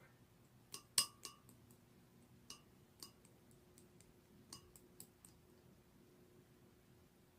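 Faint, scattered clinks and clicks of small hard objects tapping, about eight in the first five seconds, the loudest about a second in, over a faint steady hum.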